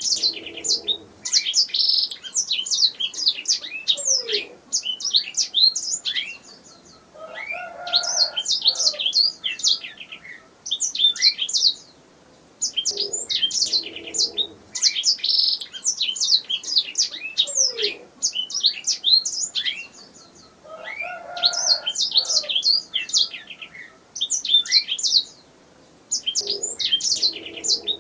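Domestic canary singing long phrases of rapid chirps and trills, broken by short pauses. The same stretch of song comes round again about every 13 to 14 seconds, as in a looped recording.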